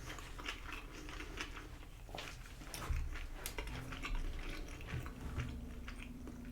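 A person chewing spicy tteokbokki rice cakes, with many soft, irregular wet clicks and smacks of the mouth.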